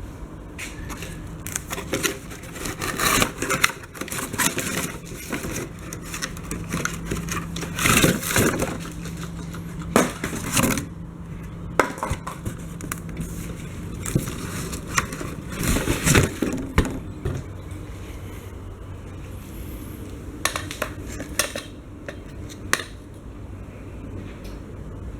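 Handling and unboxing of cardboard and plastic packaging: irregular rustling, scraping and clattering, with louder knocks about 3, 8, 10 and 16 seconds in.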